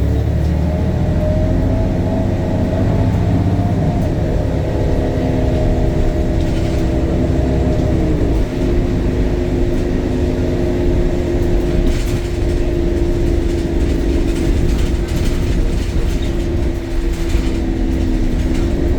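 City bus's DAF Euro 5 diesel and ZF automatic gearbox heard from on board under way: a whining drivetrain tone rises for the first few seconds, shifts lower with a gear change about eight seconds in, then holds steady over the engine's rumble.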